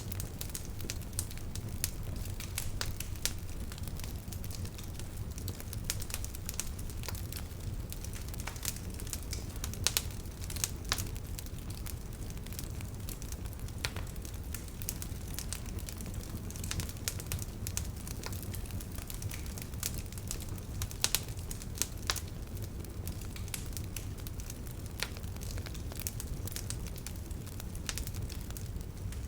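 Bonfire crackling: wood snapping and popping at irregular intervals over a steady low rumble of the flames, with a few louder pops about ten seconds in and again a little past twenty seconds.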